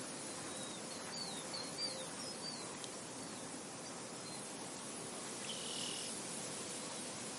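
Soft wind blowing over a field, a steady hiss. A bird gives a quick run of short high chirps in the first few seconds, then one longer high note about six seconds in.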